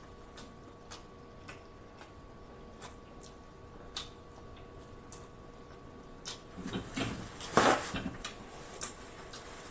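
Close-miked chewing of roasted Cornish game hen meat: soft wet mouth clicks about twice a second, then a louder cluster of lip-smacking and chewing noises about seven to eight seconds in.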